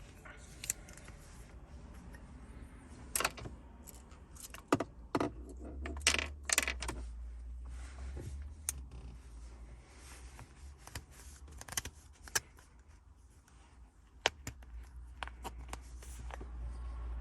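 Small metal screws and a Torx screwdriver clinking and clicking irregularly as the six trim screws are handled and driven back in, with a quick cluster of clinks about six seconds in.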